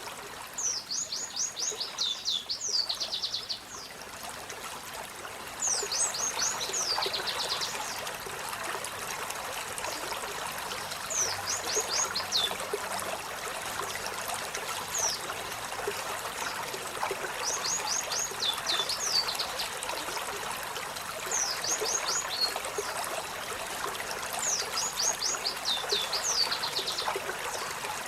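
Olive-backed sunbird singing: short bursts of rapid, high-pitched, sharply falling notes, repeated every few seconds, over a steady sound of trickling running water.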